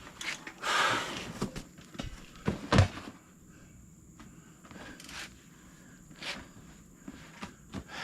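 Handling noise from work on a tractor tire and its inner tube: scattered knocks and clicks, a scraping rustle about a second in, and a louder thud near three seconds.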